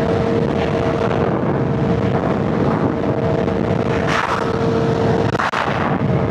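Inline-four sportbike engine running at steady revs while riding, holding one steady note, with wind noise over the microphone. The sound drops briefly about five and a half seconds in.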